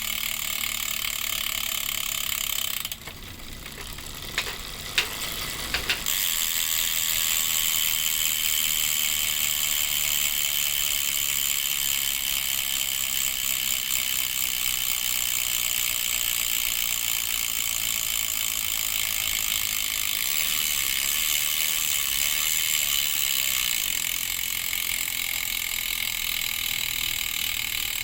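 Bontrager RaceLite freehub spinning freely: its pawls ratchet in a continuous high-pitched buzz as the wheel coasts. About three seconds in, the buzz drops away for a few seconds, leaving a few separate clicks, then comes back at full strength.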